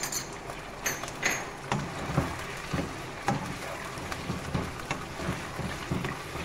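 Chicken pieces and ginger-garlic paste sizzling in hot oil in a non-stick karahi, while a wooden spatula stirs and turns them, with repeated light knocks and scrapes against the pan.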